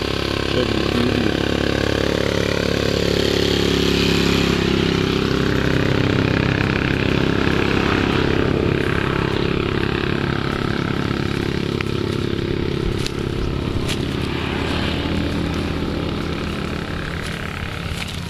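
Motorcycle engine running steadily while riding, with road and wind noise, easing off slightly near the end.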